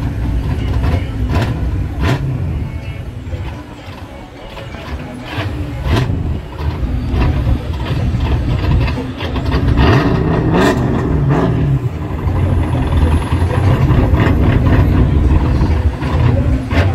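Motor vehicle engines running, a low rumble that dips briefly and grows louder and steadier in the second half.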